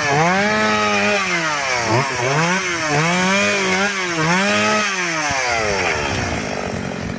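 Chainsaw cutting through hard wood, its engine pitch rising and sagging about four times as it bites, then dropping away near the end as it eases off.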